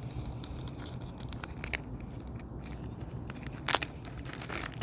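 Handling noise from work on a plastic sprinkler head in the ground: scattered small clicks, scrapes and crackles, with a sharper clack a little before the end.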